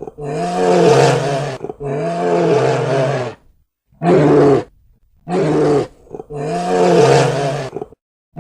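A cow mooing: a run of about five long, low moos with short pauses between them.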